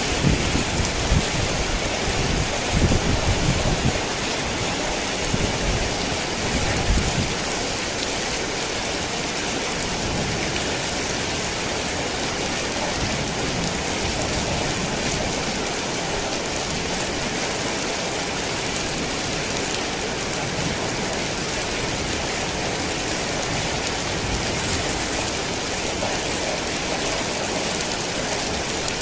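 Heavy rain falling steadily in a dense, even hiss. A low rumble of thunder runs through the first several seconds and dies away about seven seconds in.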